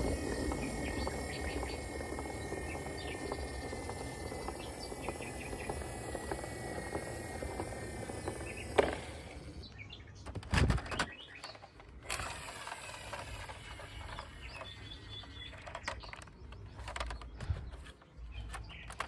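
Birds chirping over a steady outdoor background, with a loud thump about ten seconds in and scattered clicks after it.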